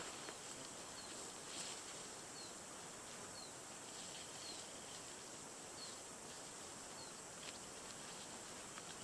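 Steady hiss of rain, with a bird repeating a short, high, falling call about once a second and a few faint ticks.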